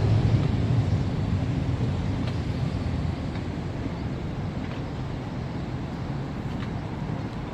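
Steady low rumble of outdoor city noise, easing off slightly over the few seconds.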